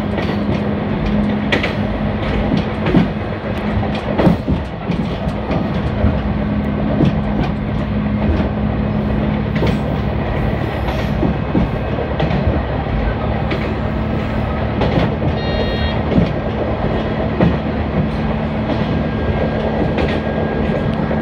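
Diesel railcar running along the track, heard from inside the car. A steady low engine drone sits under the rumble of the wheels, with scattered clacks over the rail joints.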